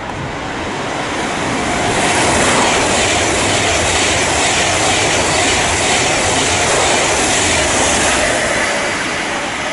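Class 390 Pendolino electric train trundling through the station without stopping: a loud rush of wheel and air noise that builds over the first two seconds, holds, and eases slightly near the end.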